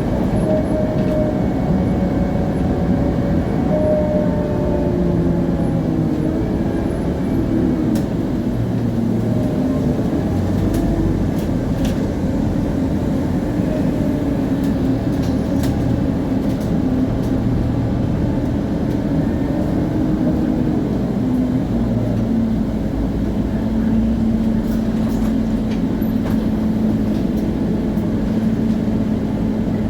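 Onboard sound of a Scania CN280UA city bus on the move: its Scania DC9 diesel engine runs under a whine from the rear axle's differential, which shifts up and down in pitch as the bus changes speed and then holds a steady tone near the end.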